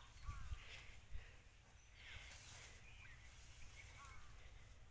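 Quiet outdoor ambience with faint, short, downward-sliding bird chirps repeating every second or so over a low rumble, with a couple of brief low thumps in the first second or so.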